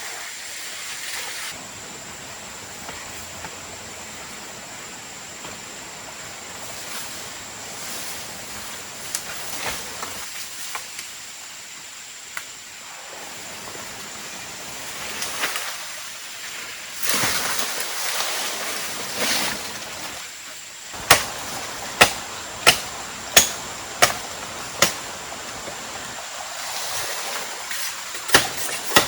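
A steady rushing hiss like running water, with a thin high steady whine over it. About two-thirds of the way in, a run of six sharp knocks comes about every 0.7 s, and more follow near the end: strikes of a tool chopping wood for the shelter.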